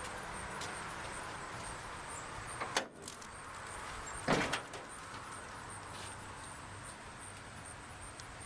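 Two short clunks about a second and a half apart over steady background noise with a faint low hum.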